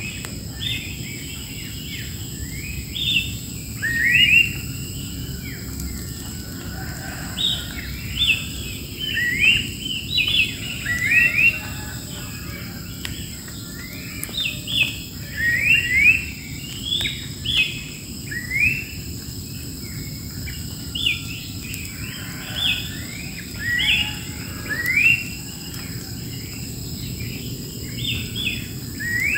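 Wild birds singing: short rising chirps repeated every second or so. Behind them is a steady high insect drone and a low background hum.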